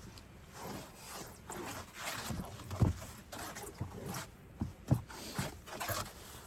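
Snow being brushed and scraped away by hand: irregular rubbing and scraping, with two dull thumps about three and five seconds in.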